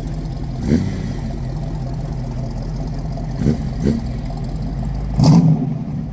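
A car engine running steadily at idle, with a few short louder bursts, the loudest near the end.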